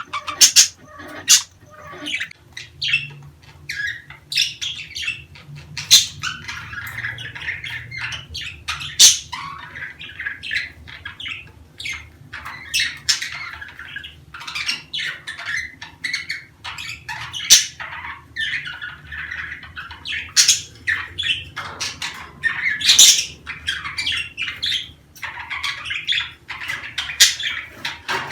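A flock of budgerigars chattering and warbling, a continuous stream of chirps and clicks with sharp squawks scattered through it.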